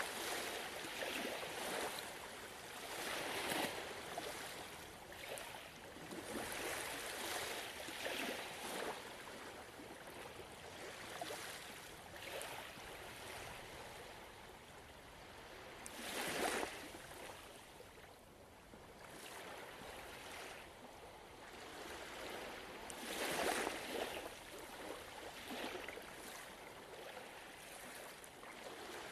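Gentle ocean waves washing ashore in slow, irregular surges that swell and ebb every few seconds, the strongest about halfway through and again about three-quarters of the way through.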